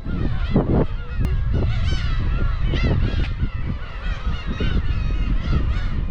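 A colony of black-tailed gulls calling, many short overlapping arched calls one after another, over a low rumbling noise.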